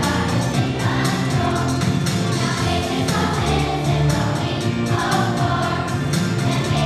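A choir singing an upbeat gospel-style song over instrumental accompaniment with a steady beat.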